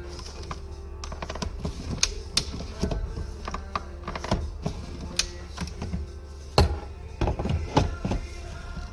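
A run of irregular clicks and light knocks, several louder ones near the end, over a steady low hum.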